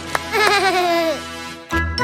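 A cartoon baby's short wavering 'ooh', falling in pitch, over a soft low hum. Bright children's music starts again near the end.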